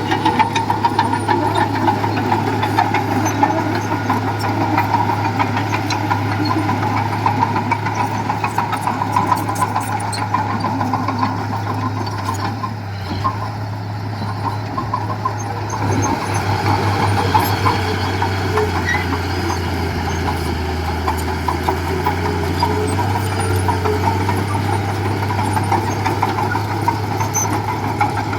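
Heavy earthmoving machine's diesel engine running steadily under work, its note dipping briefly about halfway through before it picks up again.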